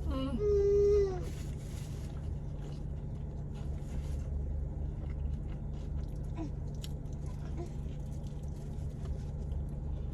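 A baby's short fussy cry, a wavering whine that stops about a second in, then soft chewing and biting over a steady low hum inside the car.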